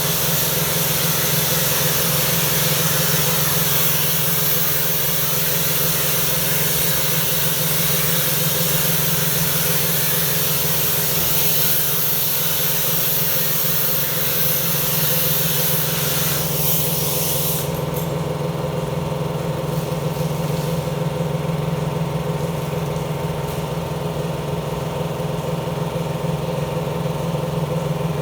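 Pressure washer running with a steady motor hum and the hiss of its jet spraying; about 17 seconds in the spray stops while the motor keeps running.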